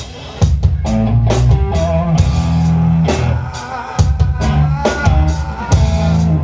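Live rock band playing: drum kit strikes over bass and guitar, dipping briefly at the start and coming back in about half a second in.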